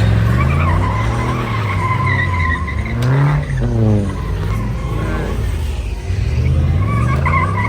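A car's engine revving up and down several times, with tyres squealing as it tries to do a burnout on the street.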